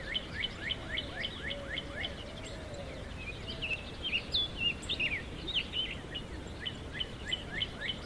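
Wild birds calling: a steady run of short, falling chirps, about three a second, over a lower wavering call in the first few seconds, with a flurry of mixed calls near the middle.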